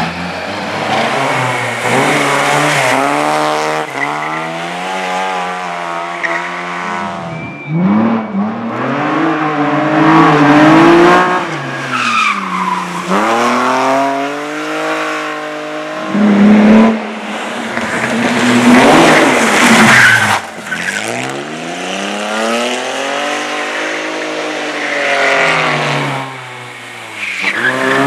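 Racing car engine at full throttle, its pitch climbing and dropping again and again as it accelerates, shifts and lifts for corners, with tyres skidding on the surface.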